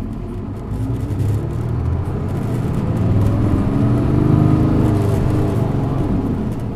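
Isuzu Erga city bus's diesel engine accelerating away from a stop, its note rising in pitch and loudness, then easing and dropping back near the end.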